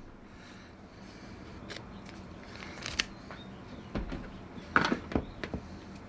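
A few light clicks and taps from handling chainsaw parts and tools, scattered with short gaps and a small cluster of taps about five seconds in.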